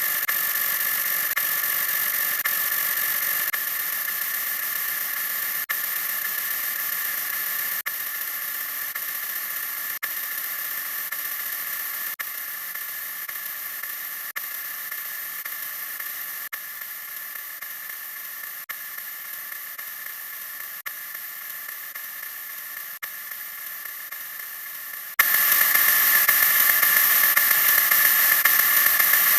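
A 'wah wah' sound effect sped up so far that it comes out as a steady hiss with a few fixed pitches. It gets a little quieter about every two seconds, then jumps louder about 25 seconds in.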